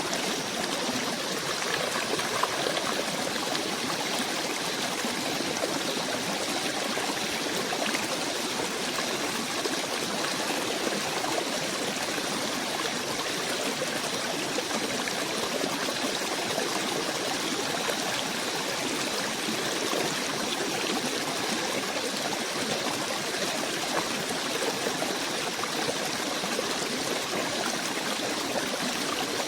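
Steady running water of a small stream, an even babbling rush with no pauses or changes.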